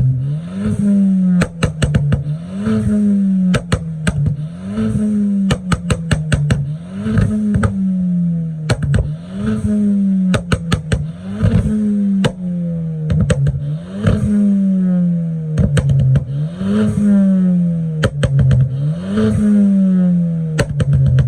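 Turbocharged four-cylinder Ford Fiesta ST200 engine revved through a sports exhaust about ten times, roughly every two seconds. Each blip rises quickly and falls away slowly, with a burst of crackles and pops as the revs drop.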